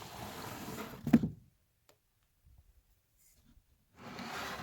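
Cardboard box and packing scraping and rustling as an air compressor is pulled out of it, with one sharp thump about a second in; after a quiet pause the scraping starts again near the end.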